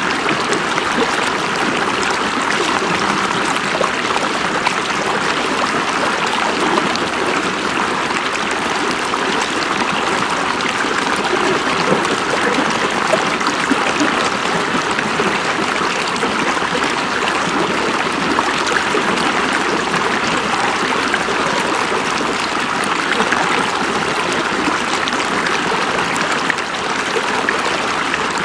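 River water flowing and rushing over rocks, a steady even rush with fine trickling.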